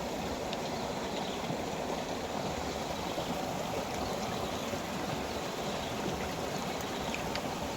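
Shallow river water running steadily at a weir, an even rushing sound with a few faint ticks.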